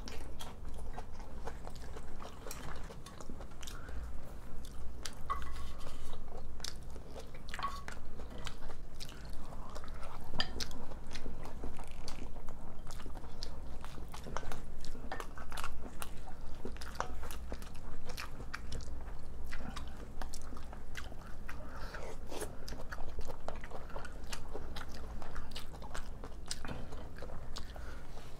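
Two people eating: chewing and biting mouthfuls of spicy pork and squid rice bowls, kimchi and side dishes, with many short clicks and smacks throughout.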